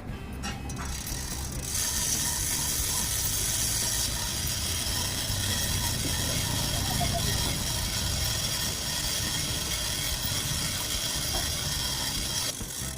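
Steady hissing, rattling noise from a metalworking tool, which starts about two seconds in and cuts off sharply near the end.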